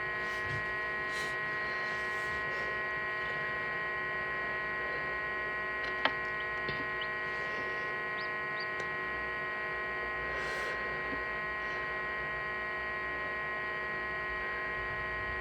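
Steady electrical hum with several fixed tones from the running egg incubator, with a single faint click about six seconds in.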